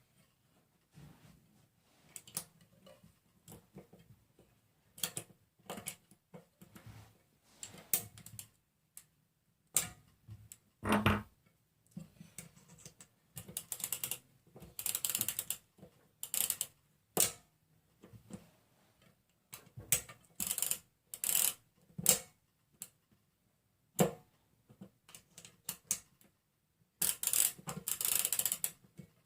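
Small metal BMX hub parts clicking, rattling and scraping in irregular bursts as they are handled and twisted into place during reassembly.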